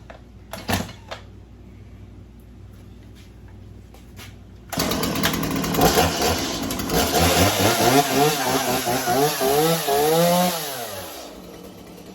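Gasoline chainsaw pull-started: the engine catches suddenly about five seconds in, is revved up and down several times, then drops back to a steady idle near the end.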